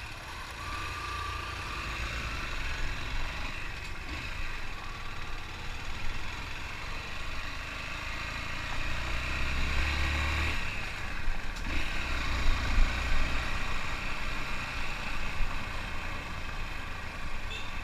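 Motorcycle engine running while under way, its loudness rising and falling as the throttle changes.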